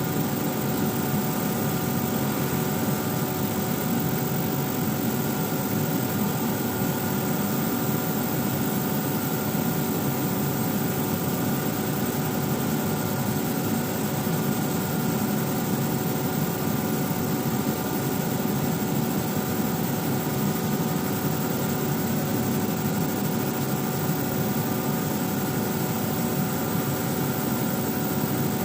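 CK 250 2.0 CO2 laser marking machine running while it marks leather: a steady machine hum and hiss carrying a couple of faint constant tones, even in level with no rhythm.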